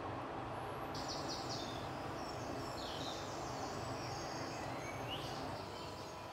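Steady background hiss with faint bird chirps and short twittering calls starting about a second in.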